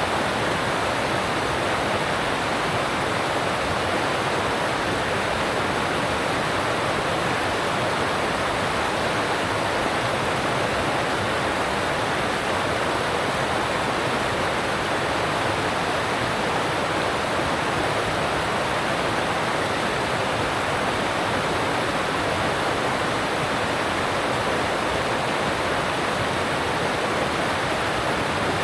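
Alpine stream rushing over rocks: a steady, even rush of water that does not change.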